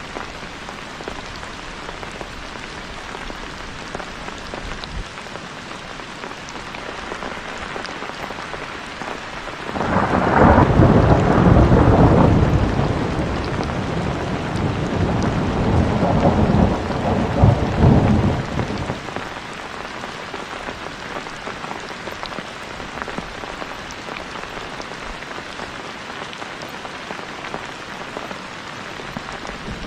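Steady heavy rain, with a long, deep rumble of thunder starting about a third of the way in. The thunder swells twice and dies away after about nine seconds.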